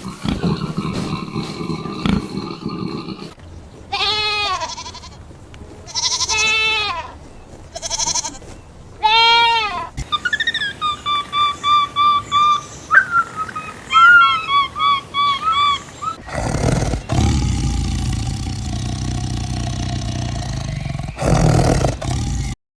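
A string of different animal calls: four drawn-out pitched calls, then a quick run of short repeated calls, then a long rough, noisy sound that cuts off suddenly near the end.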